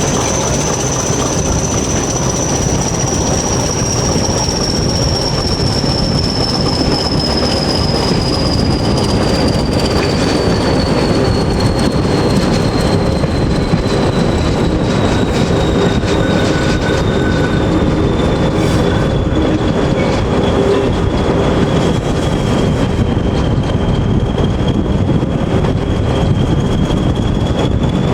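A diesel-hauled passenger train running, behind a Class 20 locomotive: a steady loud rumble of the train on the track, with a high squeal that slowly falls in pitch.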